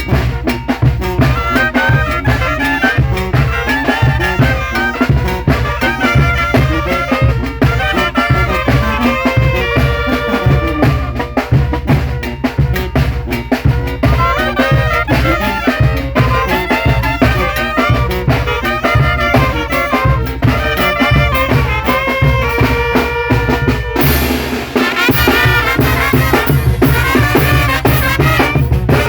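Mexican brass band (banda) from Guerrero playing: brass carrying a melody in several voices over drums keeping a steady beat. The sound changes abruptly about 24 seconds in.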